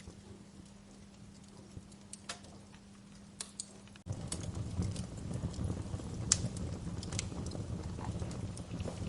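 Wood fire in a fireplace crackling, with scattered sharp pops over a faint steady hum. About four seconds in the sound abruptly gets louder, with a low rumble of flames and more frequent crackles.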